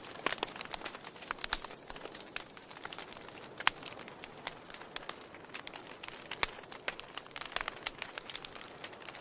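Wood fire in a fireplace crackling: irregular sharp pops and snaps over a steady soft hiss, with the loudest pop about three and a half seconds in.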